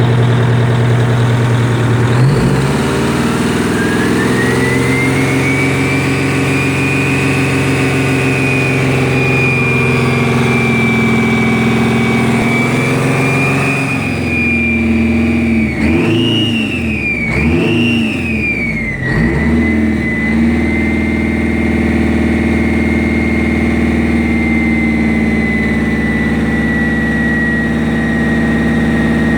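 Turbocharged Detroit Diesel 8V92 two-stroke V8 diesel running as it warms up after a cold start. About two seconds in it revs up and the turbo's whine climbs to a high, steady scream. Around the middle it is blipped twice, the whine swooping up and down each time, then it settles at a steady speed with the whine held a little lower.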